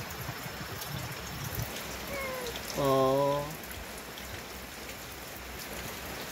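Steady rain falling. About three seconds in, a brief low, voice-like call of under a second, just after a fainter short falling one.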